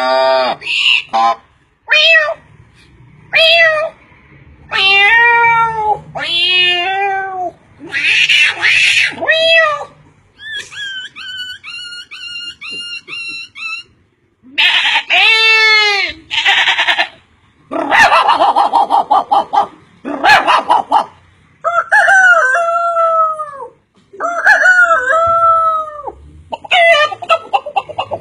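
A man imitating birds and animals with his voice: a string of separate calls that arch and glide in pitch, some harsh and raspy, with a quick run of short repeated chirps in the middle.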